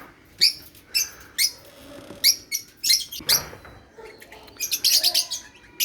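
A flock of African lovebirds (peach-faced, Fischer's and masked lovebirds) chirping, short sharp high calls several a second, with a quick run of chatter about five seconds in.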